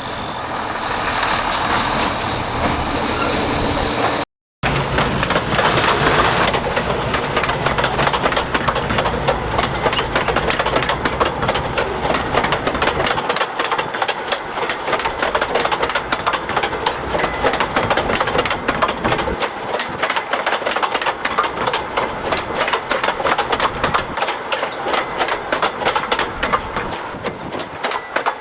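Narrow-gauge industrial train running, its wagons clattering in a fast, continuous run of clicks and knocks over the rails. The sound drops out briefly about four seconds in.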